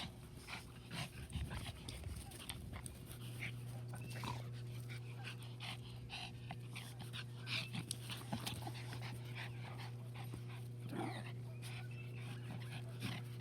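A puppy panting and giving brief whimpers, with many quick clicks and taps throughout. A steady low hum comes in about three seconds in.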